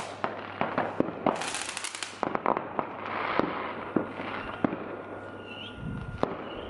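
Fireworks going off: a string of sharp bangs throughout, with a dense burst of crackling about a second and a half in.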